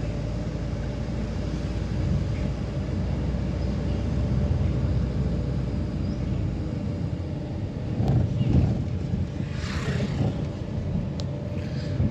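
A vehicle driving, its engine and tyres making a steady low rumble, with a louder rough stretch about eight seconds in and a few light clicks near the end.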